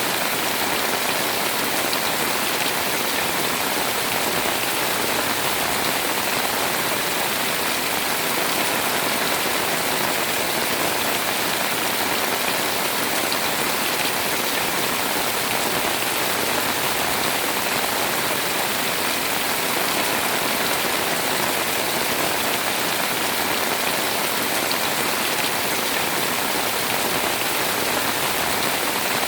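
Heavy rain pouring steadily, a dense even hiss of drops with no letup.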